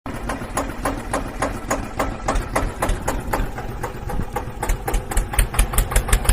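Small engine running with a fast, even ticking beat over a low hum; the pulses grow stronger in the last couple of seconds.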